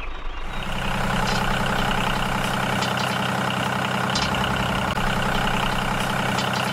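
Small electric motor of a DIY mini tractor running steadily with a fast, even whir, starting about half a second in and cutting off suddenly at the end.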